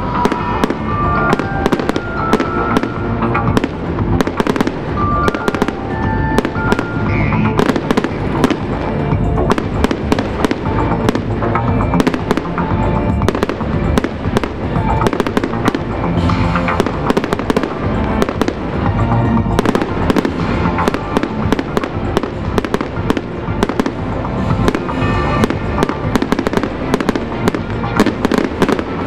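Aerial fireworks display: shells bursting one after another in many sharp bangs and crackles, with music playing underneath.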